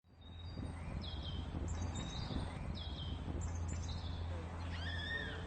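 Birds chirping: several short falling chirps, then a louder gliding call near the end, over a steady low background rumble.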